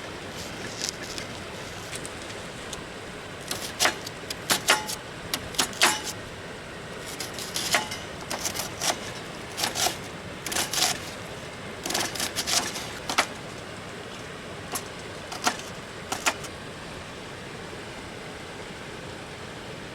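Irregular light clicks and metallic clinks in loose clusters, thinning out after the first two-thirds, over a steady background hiss.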